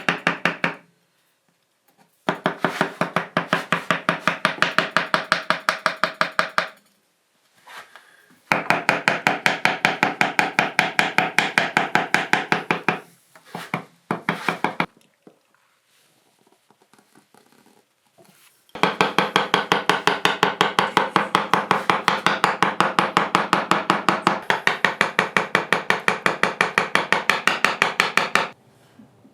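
Hand tool working wood with rapid, evenly spaced knocks, in three runs of several seconds each with short pauses between.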